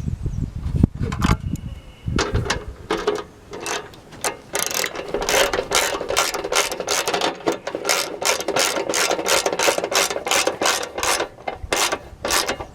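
Hand ratchet clicking in quick, repeated strokes as a bolt on the throttle-cable clamp is turned, steady from about two seconds in.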